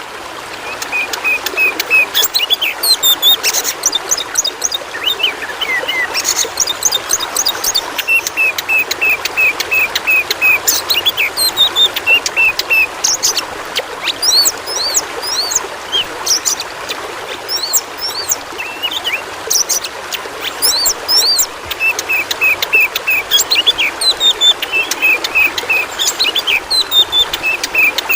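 Oriental magpie-robin (kacer) singing loudly and without pause: varied chirps and rising and falling whistles, with runs of quick repeated notes. Under it, the steady rush of running water.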